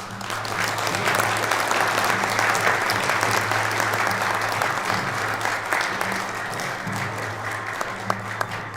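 Audience applauding, rising at the start and easing off near the end.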